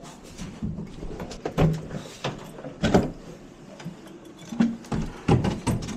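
Irregular knocks and clunks of equipment being handled, with a few sharper, louder hits about a third of the way in and again near the end.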